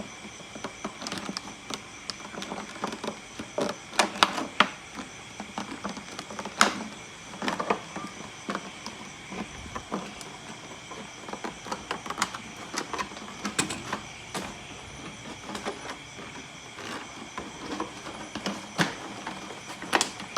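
Plastic bottle being handled and pierced to make a hole, giving irregular sharp clicks and crackles at uneven intervals.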